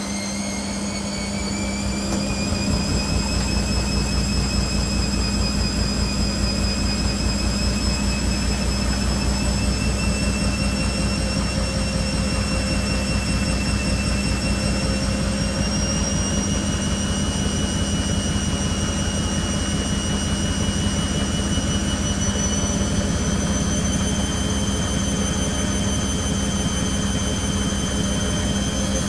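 Beko WTG620M1 washing machine spinning up. The drum motor's whine rises slowly in pitch over a steady low hum, getting louder over the first few seconds and stepping higher about halfway through.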